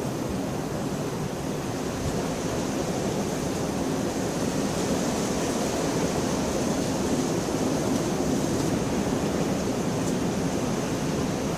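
Steady downpour of rain, a dense even rushing hiss that swells slightly louder through the stretch.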